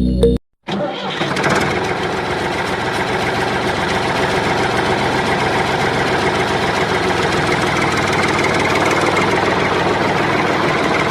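A homemade mini tractor's small motor starts running about half a second in and then runs steadily with a fast, dense rattle, growing slightly louder.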